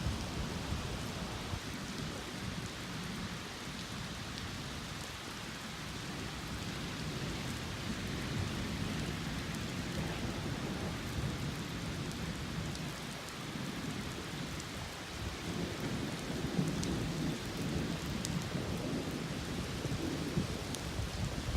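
Steady rain falling, with low rolling thunder rumbling underneath that swells a little in the last few seconds.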